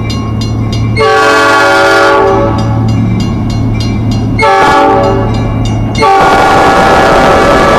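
A diesel locomotive's air horn blowing a chord in repeated blasts: one longer blast about a second in, then another starting at about four and a half seconds. At about six seconds the loud rumble and rush of the passing train joins the horn, which is still sounding.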